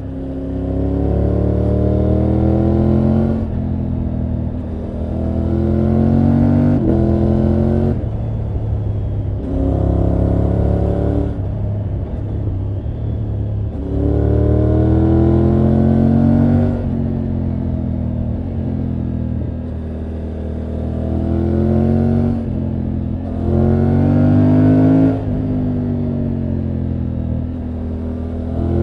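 2024 Triumph Tiger 900 GT Pro's three-cylinder engine and exhaust under way, pulling up through the revs and dropping sharply at each gear change. This repeats about six times as the bike accelerates.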